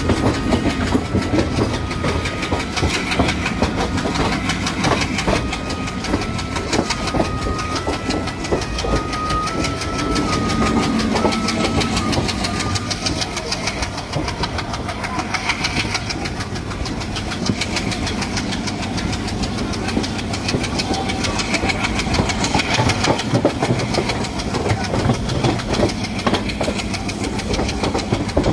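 Diesel locomotive working hard as the train gathers speed, its engine running under a steady rattle and clatter of coach wheels on the rails, heard from an open coach door. A thin high whine shifts in pitch through the first half.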